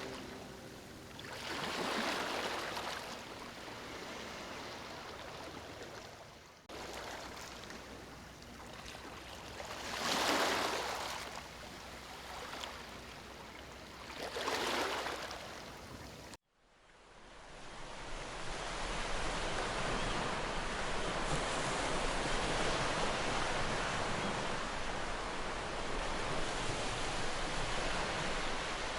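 Sea waves washing in, a swell rising and falling every few seconds. About halfway through it cuts abruptly to a different recording of steady, continuous surf with wind.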